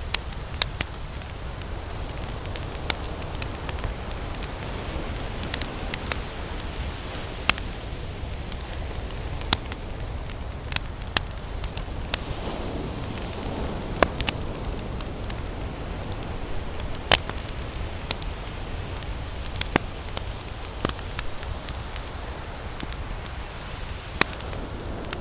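Wood campfire crackling, with sharp, irregular pops over a steady low rushing noise.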